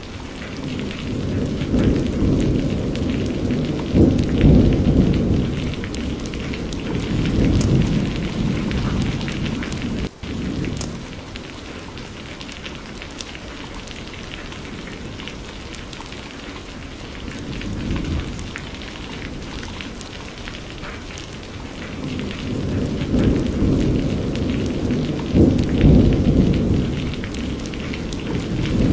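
Steady rain falling, with low rolling thunder swelling and fading twice, in the first third and again near the end. The sound briefly cuts out about ten seconds in.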